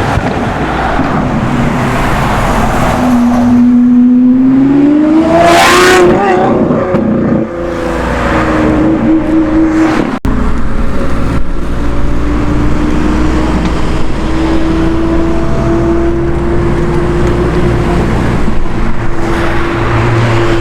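Sports car engines accelerating and passing, one engine's pitch climbing steadily to a short, very loud burst about six seconds in. After a brief break about ten seconds in, another engine runs at a fairly steady note.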